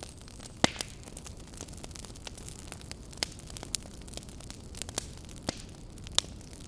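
Campfire crackling, with irregular sharp snaps and pops over a steady low hiss and rumble. The loudest pops come about half a second in and near the end.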